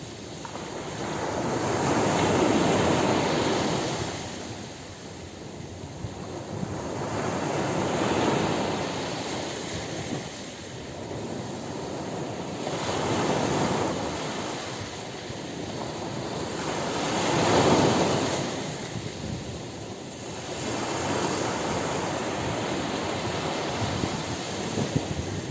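Ocean surf breaking on a beach: four waves swell and wash in, about five seconds apart, followed by a steadier wash of water near the end.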